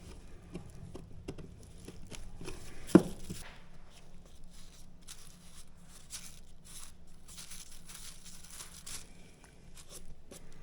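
Rustling and crinkling handling noise with scattered light clicks, and one sharp knock about three seconds in.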